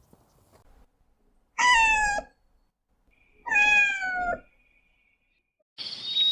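A domestic cat meowing twice, each meow under a second long and falling slightly in pitch. Near the end a steady chirring chorus of frogs starts.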